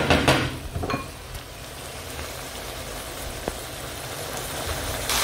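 Chopped onions, peppers and tomatoes sizzling gently in a frying pan. A spatula knocks and scrapes against the pan a few times in the first second.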